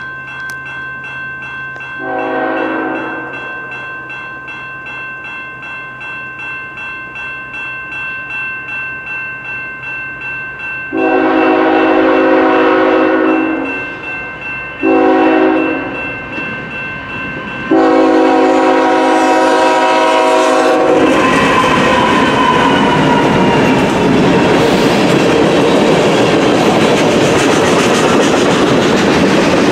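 A railroad crossing bell rings steadily while an approaching diesel freight train sounds its horn: a short blast early on, then three loud blasts from about eleven seconds in, the last one long. The train then passes close by, a loud, even rumble and clatter of freight car wheels on the rails.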